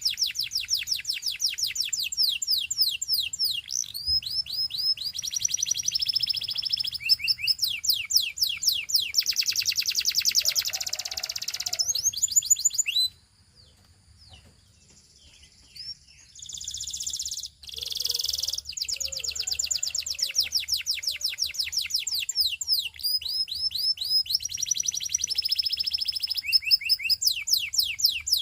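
Belgian singing canary in full song: long runs of rapid, evenly repeated high notes and trills, one phrase rolling straight into the next. The song breaks off for about three seconds midway, then picks up again.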